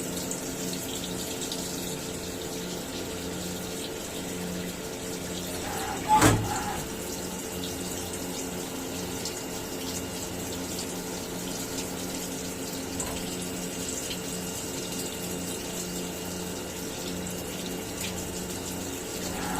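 CNC milling machine running, a steady hum with a hiss of flowing water, as from coolant; a single sharp knock about six seconds in.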